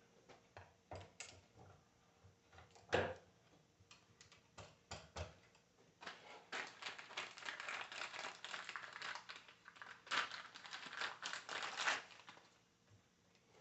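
Small metal parts of an alternator being handled during reassembly: scattered clicks and a knock, then about six seconds of rapid clicking and rattling.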